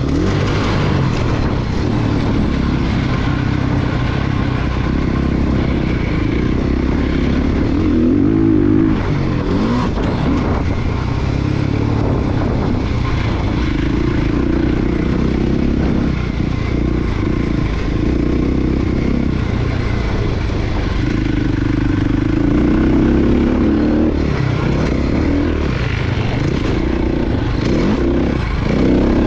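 Dirt bike engine being ridden hard, revving up and down over and over as the rider accelerates and backs off, its pitch climbing and dropping every few seconds.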